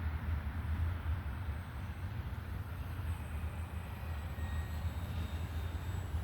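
Wind rumbling on the microphone, with the faint high whine of a Hobbyzone Carbon Cub S2 RC plane's electric motor in flight, heard most clearly about four to five seconds in.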